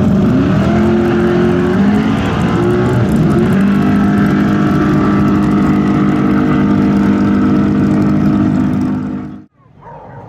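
V8 muscle car engine running hard at high revs. Its pitch rises and falls a few times, then holds steady and loud before cutting off suddenly about nine seconds in.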